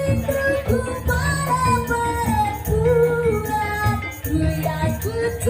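Live band music with a female singer holding long, gliding notes over a steady, repeating beat.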